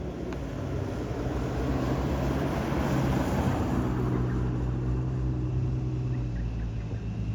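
A classic car's engine driving past slowly, growing louder to a peak about three seconds in, then a steady engine note carrying on.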